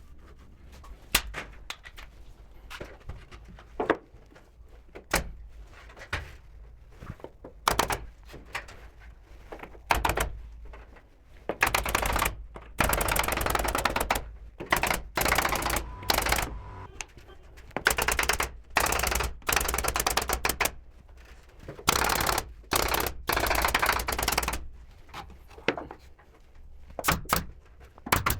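Pneumatic nail gun firing, first single shots a second or two apart, then from about halfway on long rapid strings of shots.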